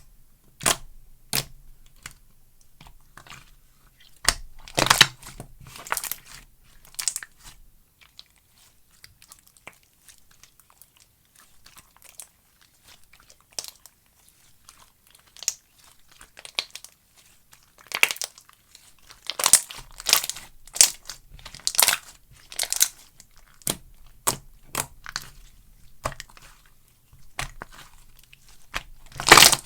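Slime being squished and pressed by hand, making irregular sharp pops and crackles in quick clusters, with softer scattered clicks between them.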